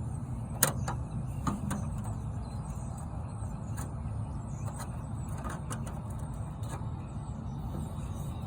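A vehicle engine running with a steady low rumble, with a few light clicks and knocks scattered through it.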